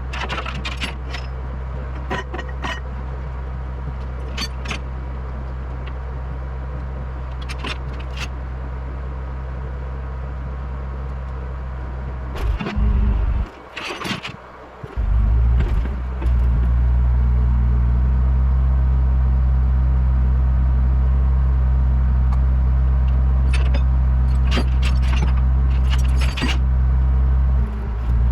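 Rollback tow truck's engine running steadily, with scattered metallic clinks and rattles. About halfway through the engine sound drops out for a second or two, then comes back louder for the rest.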